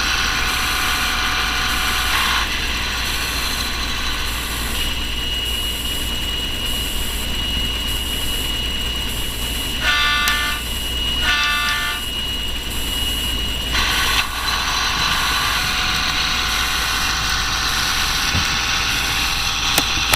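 Digitrax sound decoder in a model Mack CF truck playing a modified Budd RDC railcar sound file through its small speaker: diesel engine running steadily, with two short horn toots about ten and eleven seconds in.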